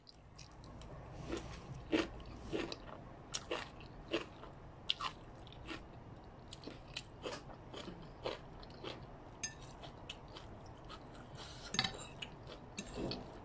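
Close-up chewing and biting of stir-fried egg noodles with crunchy vegetables and crispy onions: irregular crisp crunches and wet mouth clicks, a few a second.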